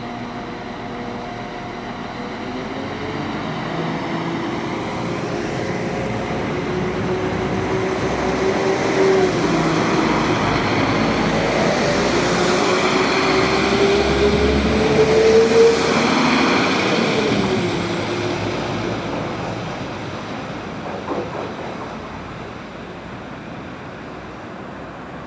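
Class 197 diesel multiple unit pulling away and accelerating past, its engine note rising in pitch as it gathers speed. It is loudest a little past halfway, then fades as it draws off.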